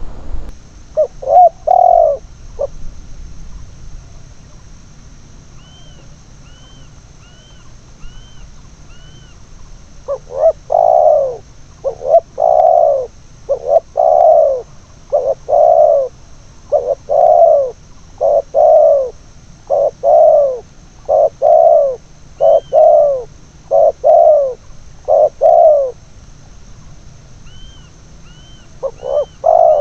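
Spotted dove (tekukur) cooing: a short burst of coo notes, then after a pause a long, regular run of repeated coos, a bit over one a second. Faint, quick high chirps of a small bird come in the pause and near the end.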